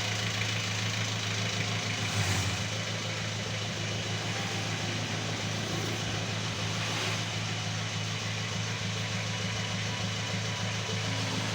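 Chevrolet LUV engine idling steadily, with a brief knock about two seconds in.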